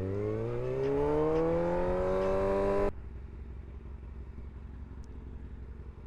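Kawasaki ZX-6R's inline-four engine rising steadily in pitch as the bike accelerates. It cuts off abruptly about three seconds in, leaving a low steady rumble with road and wind noise.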